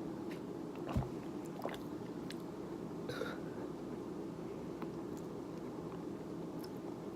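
Small mouth and handling sounds after drinking over a steady room hum: a soft knock about a second in, scattered light clicks, and a short breathy sound near the middle.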